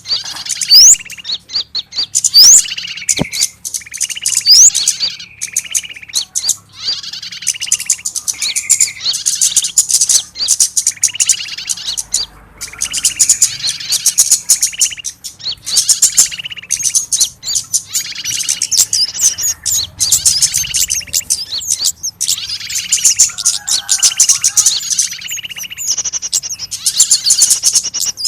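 Bird-lure recording of small birds' agitated chirping, the distress calls of a trapped bird used to draw in other small birds: dense bursts of high, rapid chirps that come and go every second or two, with a few rising whistles in the first seconds.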